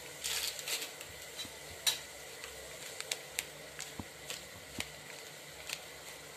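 Onion and spices frying in oil in an aluminium pressure cooker: a steady faint sizzle, broken by scattered sharp clicks and ticks.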